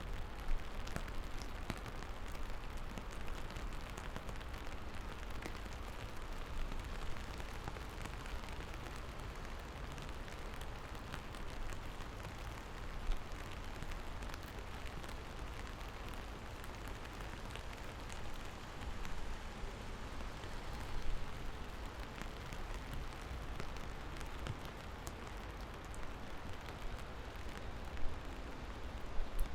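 Steady rain falling, with scattered individual drops ticking against a hard surface over a constant low rumble.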